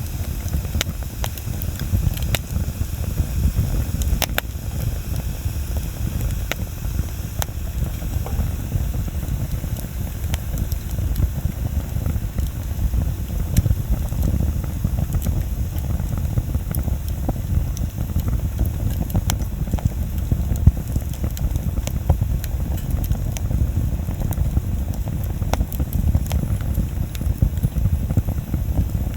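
Wood bonfire burning: a steady low rumble with scattered sharp crackles and pops of burning wood, one pop louder about two-thirds of the way through.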